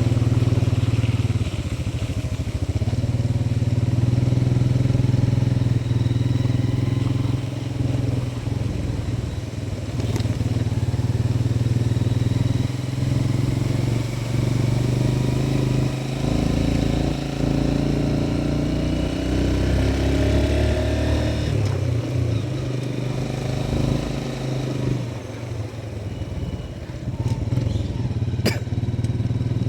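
Motorcycle engine running under way, its pitch rising and falling with throttle changes, with wind and road noise. A sharp click sounds near the end.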